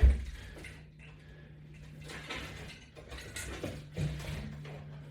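A thump, then faint knocks, clicks and rustling as a person moves about and handles exercise equipment, over a steady low hum; one more distinct knock comes about four seconds in.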